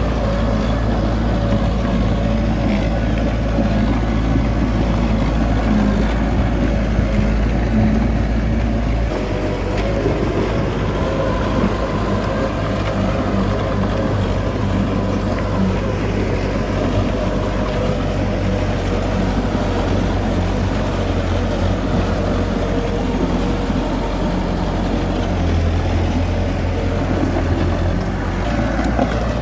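Heavy diesel engine running steadily, with a change in its low drone about nine seconds in and again near the end.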